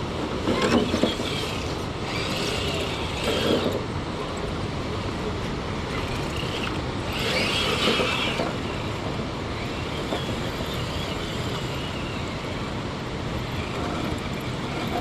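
Steady outdoor background noise, an even rushing hiss, with a few short louder patches: near the start, around three seconds in and around eight seconds in.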